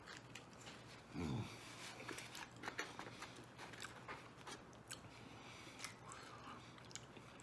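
Faint chewing and small wet mouth clicks from a man working through a mouthful of deep dish pizza, with a brief low sound about a second in.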